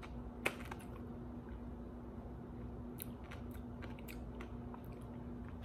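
A crunchy bite into a stuffed pickle about half a second in, then chewing with scattered small crunches.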